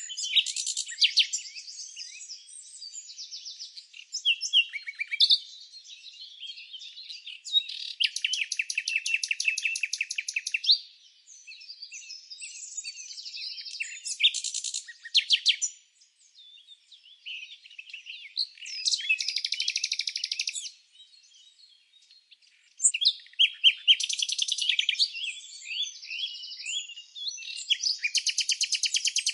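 Several songbirds chirping and singing, with overlapping short high chirps and whistles. Rapid trills lasting a couple of seconds each break in about five times, with brief lulls between them.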